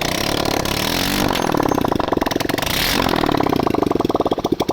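Bajaj V12's single-cylinder motorcycle engine running on a freshly refitted engine, revved up and back down at the start and again about three seconds in. It is being run to check for an oil leak from the engine gasket.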